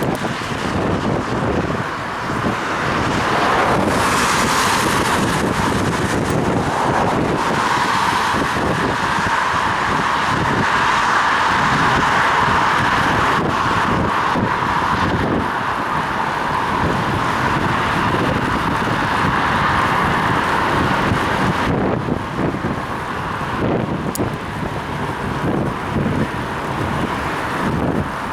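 Steady wind and road noise from riding a bicycle on wet streets in the rain, heard through a head-mounted action camera's microphone, with car traffic alongside. The noise swells and eases slightly but never stops.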